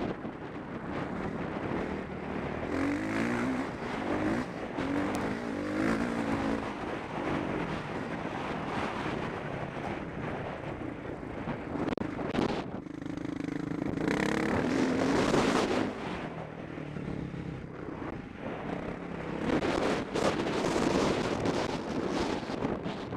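Motocross bike engine revving up and falling back again and again, its pitch rising and dropping with the throttle, heard close up from the rider's helmet.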